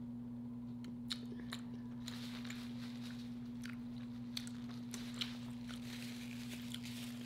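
A person chewing a mouthful of food, with scattered sharp mouth clicks and smacks over a steady low hum.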